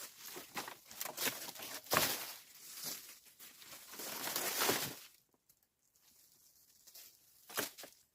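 Irregular rustling and crunching handling noises that stop about five seconds in, with one more short crunch near the end.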